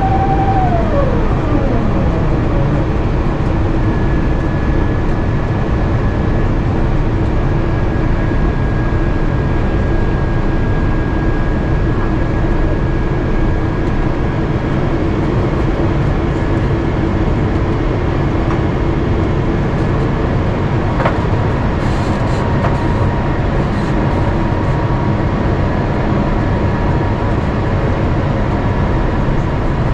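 Steady cabin roar of an Airbus A350-900 in flight, from its Rolls-Royce Trent XWB engines and the airflow, heard at a window seat over the wing. A whine falls in pitch over the first couple of seconds, and there is a single click about two-thirds of the way through.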